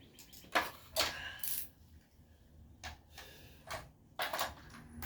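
Metal wrenches clinking together in a handful of sharp, irregular clinks as hand tools are handled and set down.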